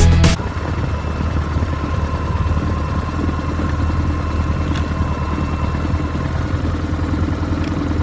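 2003 BMW R1150GS's boxer twin engine running steadily at a low, even pitch, with no revving; a music track cuts off just as it begins.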